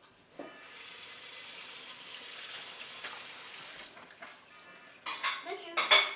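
A steady rush of running water for about three seconds, starting and stopping abruptly. Near the end comes a burst of dishes and cutlery clinking.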